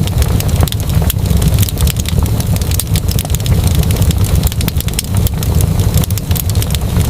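Wood fire crackling: dense, irregular sharp pops and snaps over a steady low rumble of the flames.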